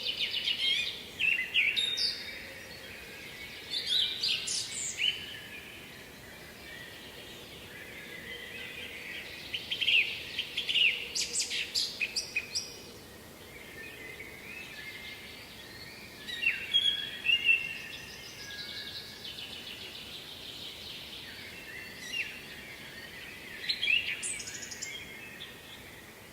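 Songbirds singing in short phrases that come again every few seconds, with a faint steady rush beneath.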